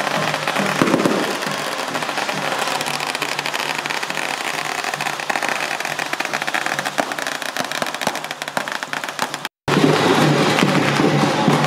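A string of firecrackers crackling in a rapid, dense stream, with music underneath. It cuts off abruptly about nine and a half seconds in, and louder music follows.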